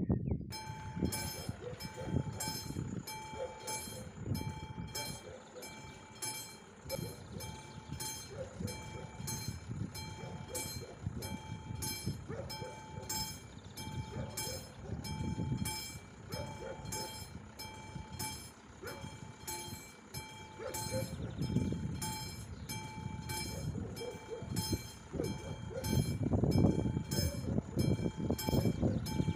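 AŽD 71 level-crossing warning bell, a classic mechanical bell, starting about half a second in and ringing in steady, evenly repeated strokes to warn of an approaching train. A train's low rumble grows louder near the end.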